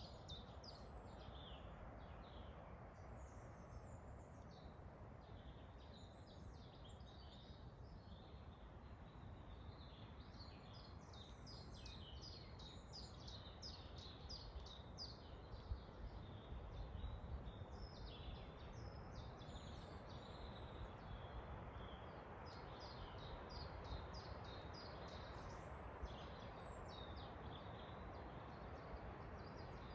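Forest birds singing and chirping, with quick runs of high notes and trills coming and going throughout, over a steady low rush of wind.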